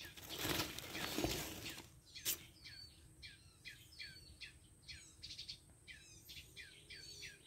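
Songbirds chirping in a fast run of short calls, each dropping in pitch, several a second, after a rustling noise and a sharp click in the first two seconds.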